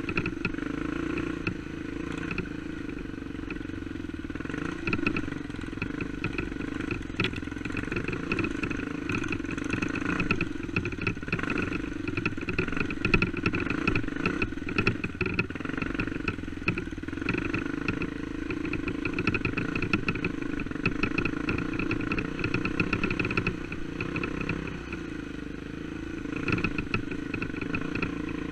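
Dirt bike engine running at fairly steady, low revs while riding a rough trail, with scattered knocks and rattles.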